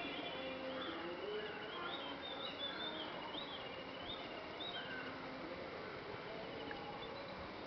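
Wild birds singing in woodland: a run of quick, high, repeated chirps a second or two in, with softer calls and a light outdoor background throughout.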